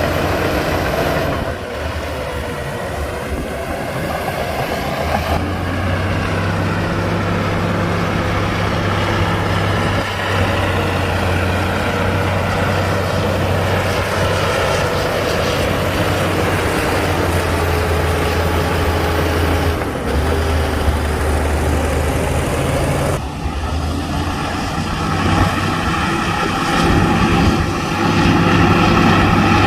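Bulldozer's heavy diesel engine running under working load, its note rising and falling as it pushes, growing louder near the end.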